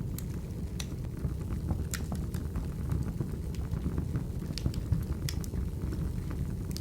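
Wood fire burning: a steady low rumble of flames with scattered sharp crackles and pops of the burning logs.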